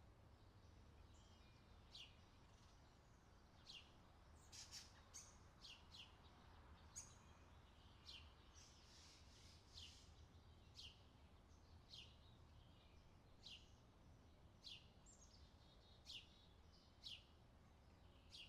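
Outdoor summer ambience: a bird calling short chirps that drop in pitch, about one a second, some bunched together, over a faint low background rumble.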